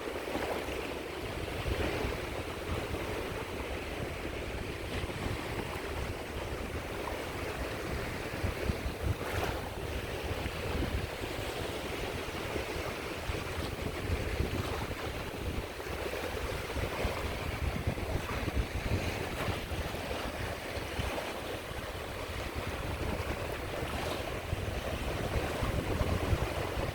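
Sea waves washing onto the shore in a continuous wash with occasional louder surges, and wind buffeting the microphone as a low rumble.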